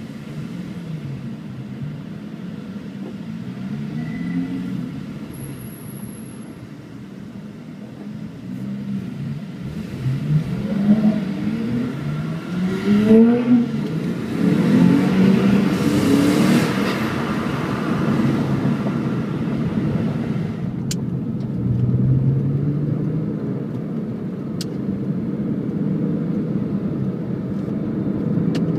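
Porsche 911 Carrera S (997 Gen II) flat-six heard from inside the cabin, pulling up through the gears with several rising revs about a third of the way in, then running steadily at a cruise.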